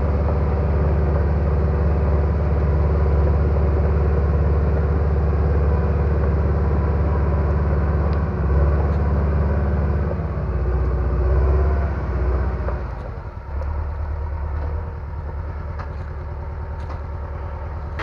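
A heavy machine's engine running loudly, its note shifting a few times. About thirteen seconds in it settles to a quieter, steadier run, as if throttled back.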